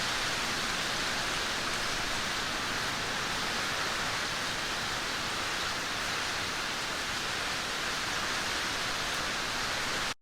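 Heavy rain falling in a steady, dense hiss, cutting off suddenly near the end.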